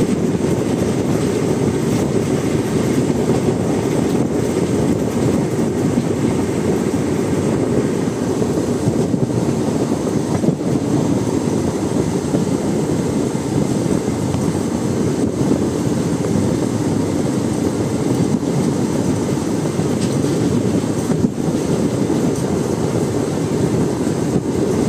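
Malabar Express passenger train running at speed: the wheels make a steady rumble on the rails.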